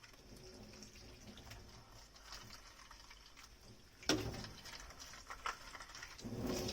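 Dishwashing at a kitchen sink: quiet water and handling sounds, with a sharp clink about four seconds in, a smaller one after it, and a louder swell of sound near the end.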